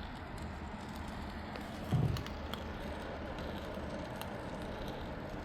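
Steady background noise with faint scattered clicks, and one short, low thump about two seconds in.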